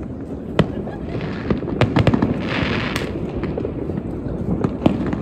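New Year's Eve fireworks: rockets and firecrackers going off with scattered sharp bangs every second or so, and a hissing rush about two and a half seconds in, over a steady low din.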